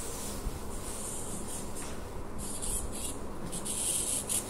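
Scratchy rubbing and rustling in a run of short bursts, starting about two seconds in, from hands handling things close to the microphone.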